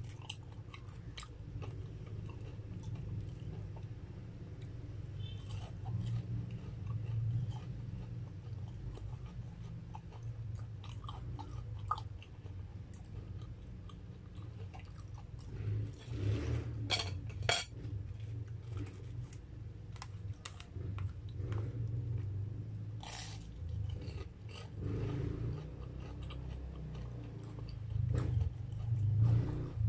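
Close-up chewing of breadcrumb-coated fried corn dogs, with wet mouth sounds and a few louder crunches of the crisp crust, the loudest about halfway through and near the end.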